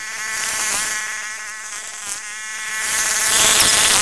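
Small engines buzzing at a distance, with a high whining note that rises and falls in pitch as the throttle changes. The sound swells twice, about a second in and again near the end.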